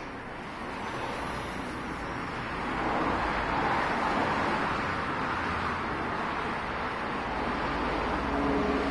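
Motor vehicle noise, a steady rumble that grows louder about three seconds in.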